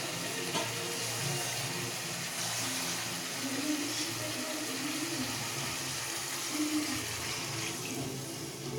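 Chicken in a tomato, chilli and soy sauce cooking in a pan with a little hot water just added, giving a steady hiss.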